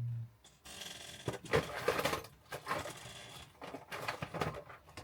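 Irregular clicks, taps and clatter of small hard tools and objects being handled and moved about on a workbench, with a brief low hum at the start and a short hiss about a second in.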